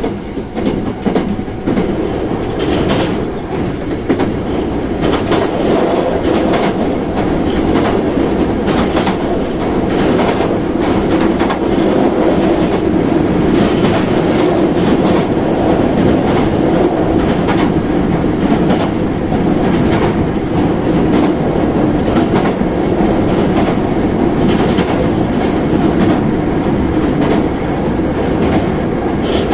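Running noise inside a Hankyu 1000 series electric train car: a steady rumble of wheels on rail with irregular clicks of rail joints, growing a little louder over the first few seconds.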